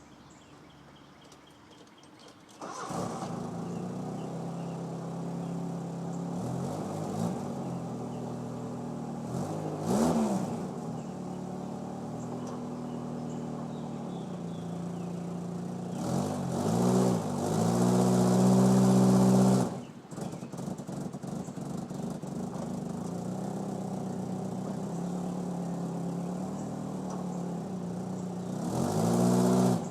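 Nissan pickup truck engine catching and then idling, revved in short blips and once held high for a couple of seconds before dropping sharply back to idle. It is revved for a burnout that lacks the power to spin the tyres.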